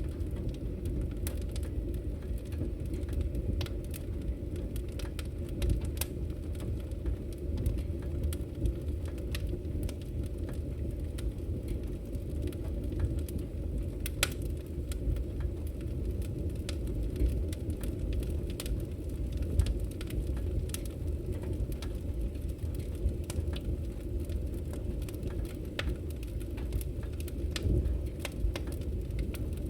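Wood fire crackling: frequent sharp snaps and pops over a steady low rumble of burning logs, with one louder pop about halfway through.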